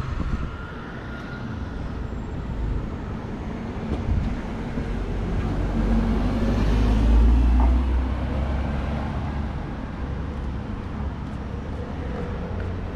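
Street traffic with the low rumble of a motor vehicle driving past close by, swelling to its loudest a little past halfway and then fading.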